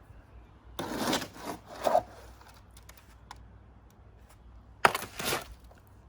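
A hand tool scraping and scooping wet cement mix, in two bouts: one about a second in and one near five seconds.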